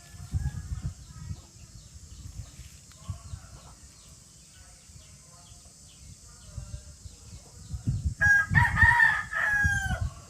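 Young rooster (cockerel) crowing once near the end, a call of about two seconds that breaks partway and ends on a falling note. Soft clucking from chickens comes before it.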